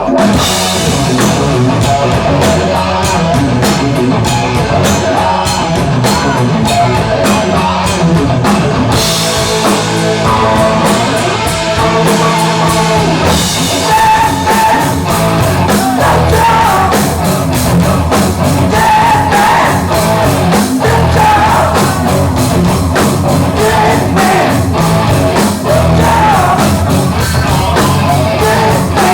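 Hard rock band playing live, with drum kit, distorted electric guitar and bass. Singing comes in about halfway through.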